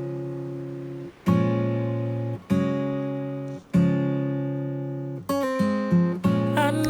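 Background music: acoustic guitar strumming full chords about every 1.2 s, each left to ring and fade. Near the end the chords change more quickly and a singer comes in.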